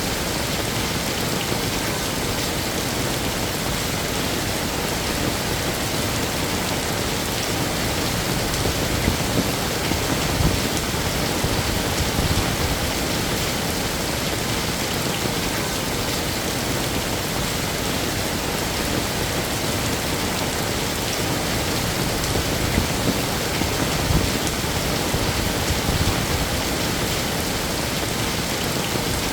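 Heavy rain falling steadily on hard surfaces, a dense even hiss with scattered louder drops and splashes.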